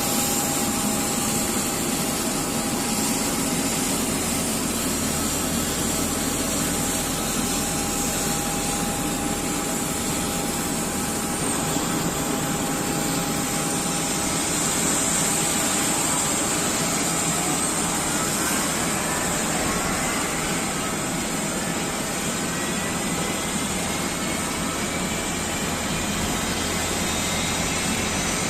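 Jet airliner's engine noise: a steady rushing whine, with thin tones rising slowly in pitch through the second half.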